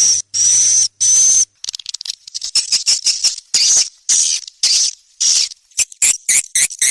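Swiftlet call recording played as a lure sound for swiftlet houses. It opens with three long buzzy calls with a high whistle running through them, then breaks into rapid trains of short clicks and twittering chirps that grow quicker near the end.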